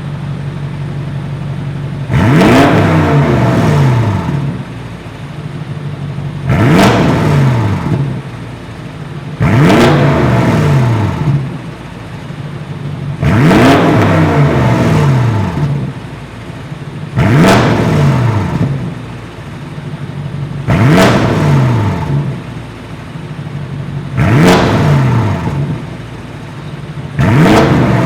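BMW X7 M50i's twin-turbo V8 through an ARP valved aftermarket exhaust, blipped eight times from idle. Each rev shoots up in pitch and falls back to idle, about every four seconds.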